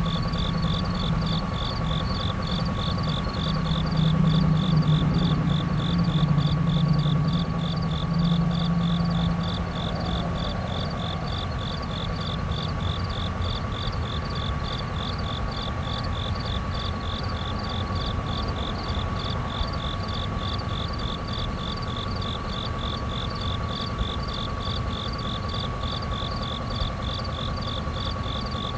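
Outdoor ambience of insects chirping in a fast, even pulsing rhythm, with a steady thin tone under it. A low whirr is strong for the first ten seconds or so, then drops back to a faint hum.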